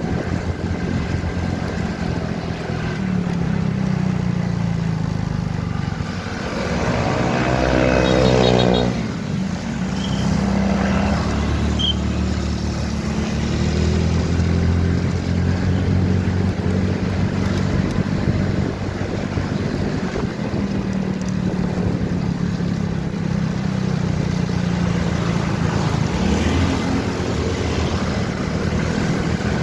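Motorcycle engine running steadily under way, its note shifting with speed. From about seven to nine seconds in, a louder engine note rises in pitch, then drops away.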